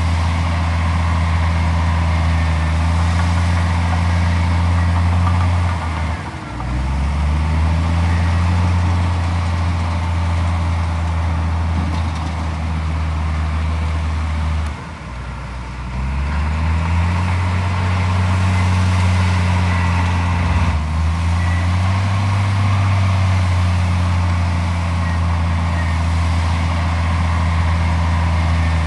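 Komatsu D41P bulldozer's diesel engine running hard and steadily. Twice, about six and fifteen seconds in, it bogs down sharply and then climbs back up to speed, as it does under a heavy push load.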